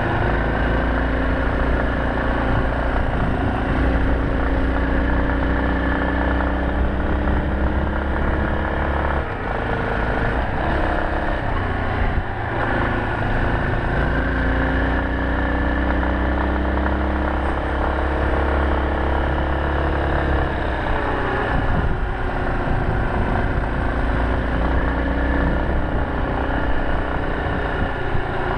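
Yamaha Serow 250's single-cylinder four-stroke engine running while riding, the engine note dropping and picking up again around 9 to 13 seconds in and dipping briefly near 21 seconds.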